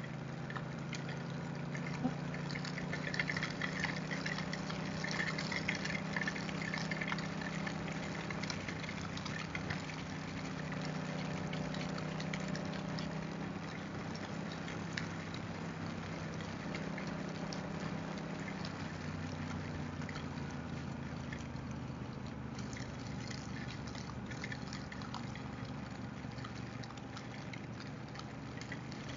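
Motorcycle ridden on a wet road in the rain: a steady engine drone under the hiss and crackle of rain and tyre spray. The engine note drops slightly about two-thirds of the way through.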